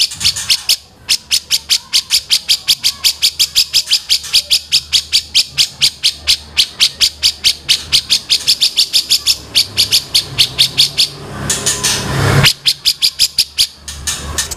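Songbird calls from a bird-training mix: a fast, even run of sharp high chip notes, about five a second, broken about eleven seconds in by a short harsh, rasping call before the chipping resumes.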